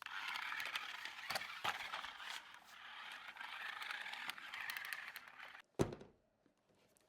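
Rustling and crackling of packaging being handled, with small clicks throughout. It stops suddenly about five and a half seconds in, followed by a single loud thump.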